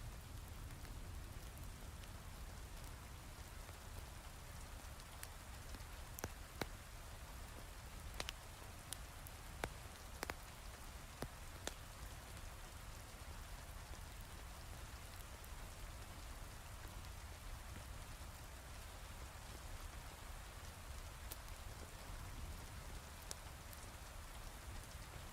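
Steady heavy rain mixed with a crackling wood fire, a handful of sharp pops standing out in the middle.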